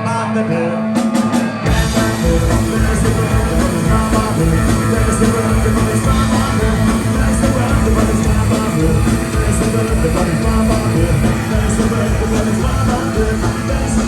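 Live rock band playing loud, with electric guitar, bass, drum kit and singing; the bass and drums come in hard about two seconds in, after a short thinner passage of held guitar chords and a few drum hits.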